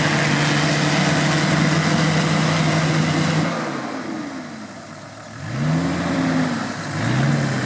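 Off-road vehicle's engine held at steady revs, then falling away and quietening before it is revved up again twice in quick rises near the end.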